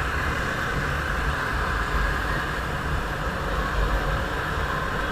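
Wind rushing over the microphone of a camera carried on a moving motorcycle, with the bike running underneath: a steady rush with a low, gusting rumble.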